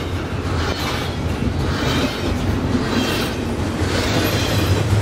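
Double-stack intermodal container train's well cars rolling past: a steady rumble of steel wheels on rail, with swells of clatter about once a second as the wheel sets go by.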